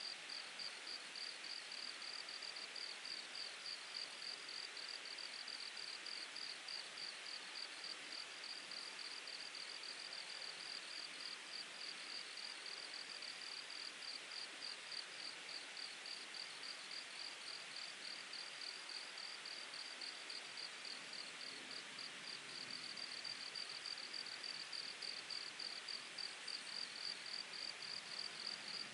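An insect, cricket-like, chirping in a quick, even rhythm over the steady rushing burble of a mountain stream.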